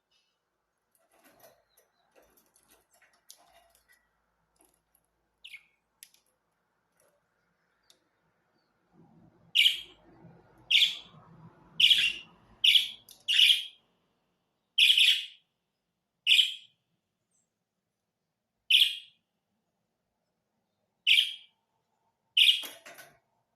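Budgerigar giving loud, short chirps, about a dozen spaced a second or two apart, starting about nine seconds in. Faint clicks and rustling come before them.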